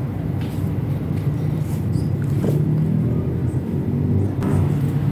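A motor running steadily, a low even rumble.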